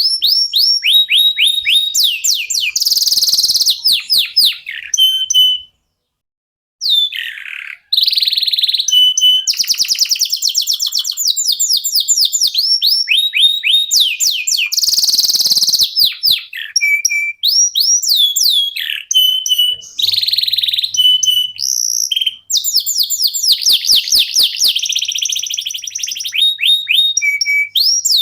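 Local canary song: fast rolls of repeated falling notes and buzzy trills in long unbroken phrases, breaking off completely for about a second about six seconds in.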